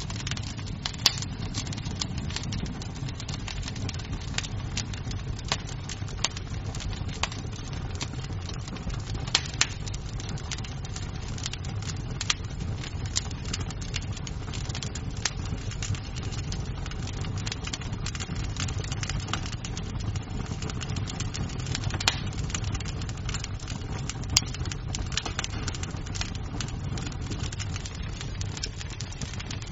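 Wood fire burning in a fireplace: a steady low rumble of flames with irregular crackles and sharp pops of the wood, a few louder pops standing out.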